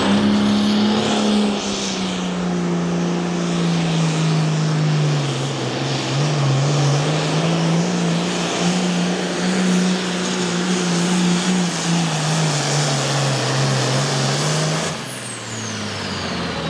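Turbocharged diesel Pro Farm pulling tractor at full throttle, dragging the weight sled, with a high turbo whine over the engine; the engine note sags as it loads down. About fifteen seconds in the engine is shut off and the turbo whine winds down in pitch.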